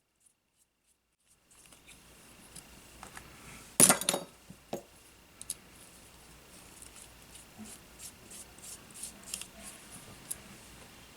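Small tools and parts handled on a workbench during a drone frame repair: a sharp clack about four seconds in, then scattered light clicks and taps over a faint steady high tone.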